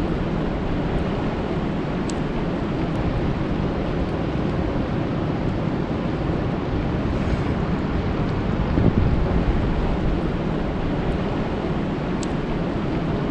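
Steady rain falling on a lake, an even low rushing hiss with a few sharp drop ticks.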